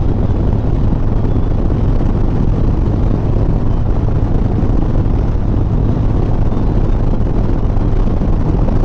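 Harley-Davidson Softail Sport Glide's V-twin engine running steadily at cruising speed, under a steady rush of riding wind on the microphone.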